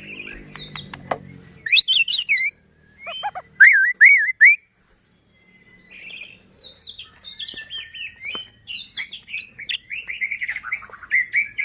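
White-rumped shama (murai batu) singing: a varied run of whistled gliding phrases mixed with sharp clicking notes, broken by a short silence about five seconds in.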